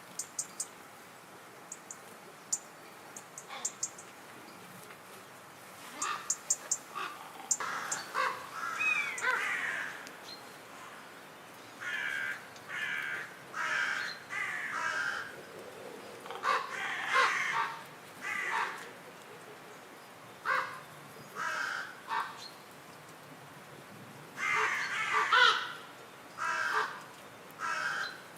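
Birds calling: clusters of harsh, repeated calls every second or two, with short high chirps in the first few seconds.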